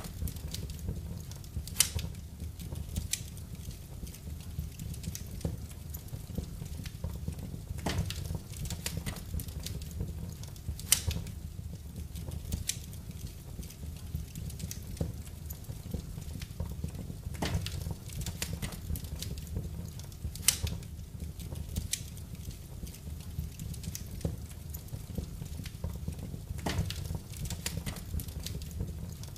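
Wood fire burning in a fireplace: a steady low rumble of the flames with scattered crackles and pops, a few of them sharper.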